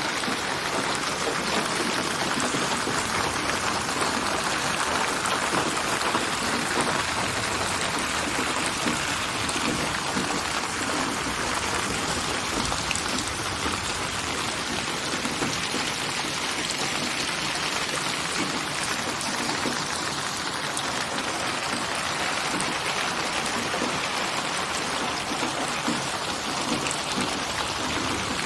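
Steady rain: a dense, even hiss of countless drops, built from many recorded rain samples and panned around the listener in 8D binaural surround.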